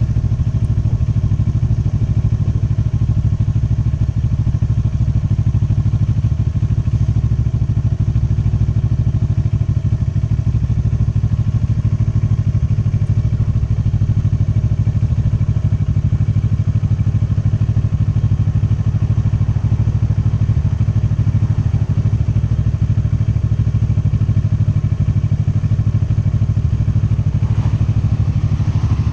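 Motorcycle engine running at a steady, unchanging pitch while riding at a constant speed, recorded by a dashcam on the bike.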